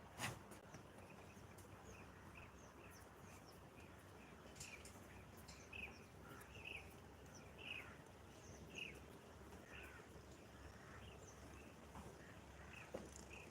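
Small birds chirping faintly, short falling chirps repeated every half second to a second over a low background hiss, with one sharp knock just after the start.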